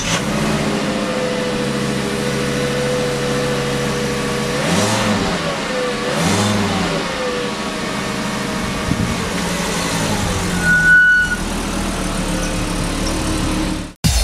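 Volkswagen Golf engine idling, blipped twice in quick rises and falls of revs about five and six and a half seconds in. A short steady beep sounds near eleven seconds.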